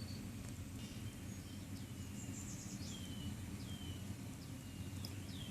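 A bird calling: a string of short chirps that each slide downward in pitch, about one a second, over a steady low background rumble.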